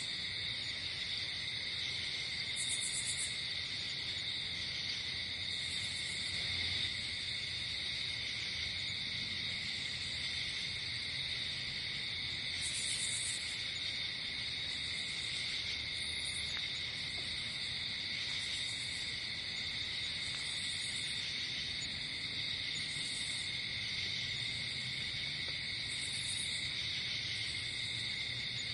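Night insect chorus: crickets trilling steadily, with a short, higher-pitched buzzing chirp repeating every two to four seconds.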